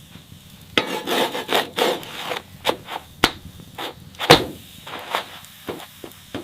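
A series of irregular knocks and scrapes, as of wood being struck and rubbed, with the loudest sharp knock a little over four seconds in.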